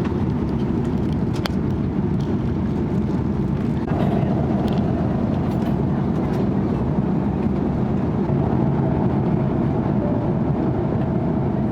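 Steady jet engine and airflow noise inside the cabin of an Airbus A330-300 airliner, stepping up slightly about four seconds in.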